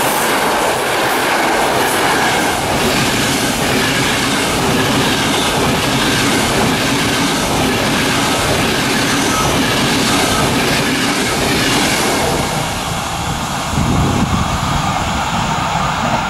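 Passenger coaches of a night train passing through a station at speed, their wheels running loudly over the rails. The noise eases off after about twelve seconds as the last coach goes by, with a brief low rumble near the end.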